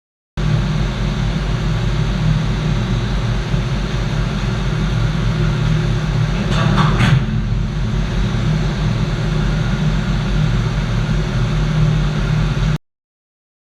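Steady drone of running machinery in a ship's engine room, with a short hiss about halfway through; it starts and cuts off abruptly.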